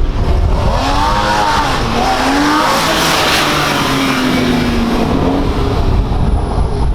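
A sports car's engine revving and driving past: the engine note climbs and drops about a second in, the sound is loudest about three seconds in, and the pitch then slowly falls as it pulls away.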